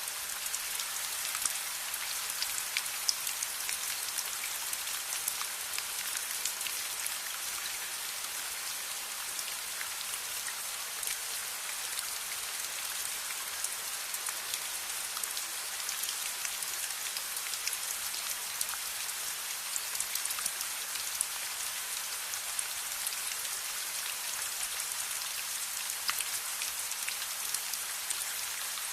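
Steady rain: a dense, even hiss of falling drops, scattered with many small sharp ticks.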